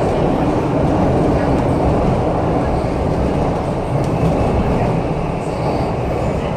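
MTR Kwun Tong Line metro train running between stations, heard from inside the car: steady running noise from the wheels and traction gear.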